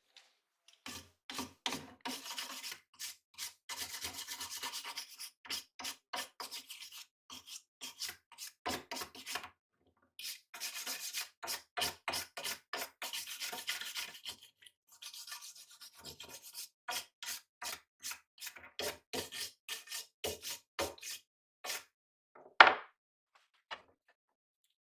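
Rusty knife blade being scrubbed by hand with an abrasive in quick back-and-forth strokes, coming in runs with short pauses. A single loud knock comes near the end.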